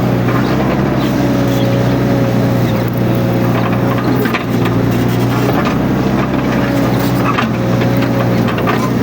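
Mini excavator's diesel engine running steadily at working speed, with a thin high whine that comes and goes and scattered sharp clicks and cracks over it.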